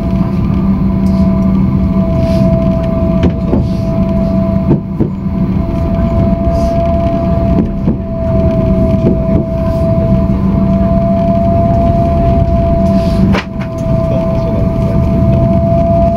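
Tokyu Setagaya Line train running at steady speed, heard from inside the car. There is a low rumble and a steady whine that wavers slightly in pitch, with a few sharp clicks from the wheels on the track.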